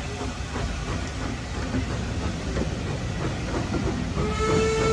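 Passenger coaches rolling slowly past on the rails, a steady rumble with scattered clanks and wheel-on-rail clatter. About four seconds in, the train sounds a long, steady pitched warning tone that keeps going.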